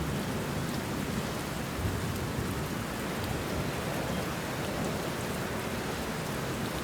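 Steady heavy rain falling on banana leaves and bushes, with a low rumble of thunder underneath.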